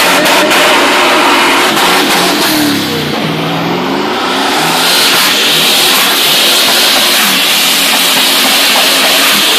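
Twin-turbo 5-litre Holden V8 revving hard in a burnout. The revs drop briefly about three seconds in and climb again. A strong high hiss, typical of spinning tyres, joins about halfway through.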